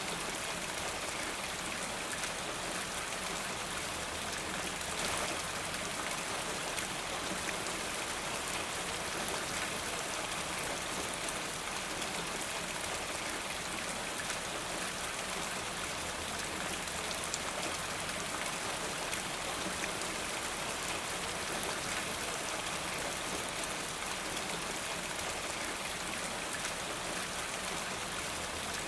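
Steady rainfall, an even hiss of rain with scattered drop ticks, unchanging throughout.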